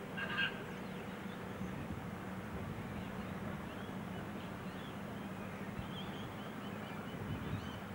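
Birds chirping now and then, the loudest call about half a second in, over a steady low hum.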